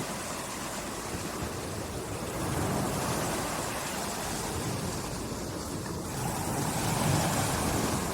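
Small waves washing onto a beach, the surf swelling and easing slowly, with a breath of wind.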